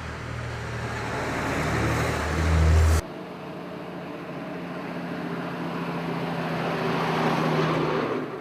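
Motor vehicle engine noise on a road, swelling as a vehicle passes. The sound cuts off abruptly about three seconds in, and a second vehicle's engine then builds slowly and fades near the end.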